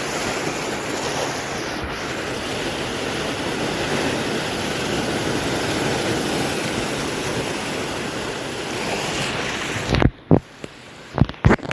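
Heavy swell surf breaking and washing, with wind on the microphone. About ten seconds in it drops away suddenly, and a few short sharp knocks follow.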